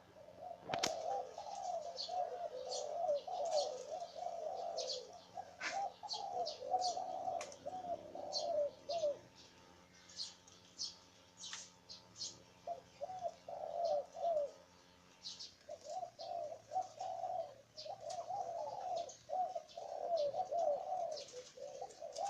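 Zebra dove cooing in long runs of rapid, rolling, warbled notes, broken by two short pauses. Other small birds chirp high over it.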